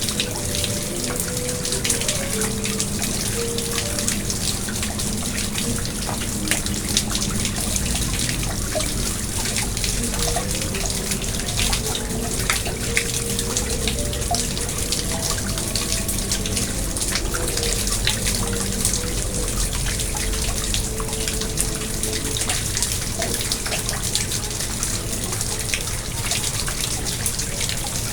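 Steady splashing and trickling of water in a garden pond, with many small drips and splashes.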